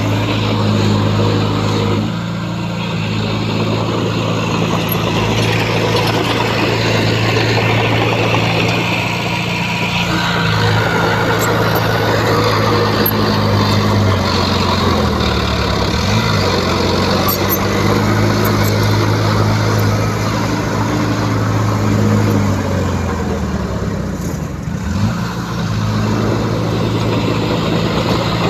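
Heavy diesel engine of a bulldozer running hard under load. Its pitch sags and recovers twice, about halfway through and again near the end.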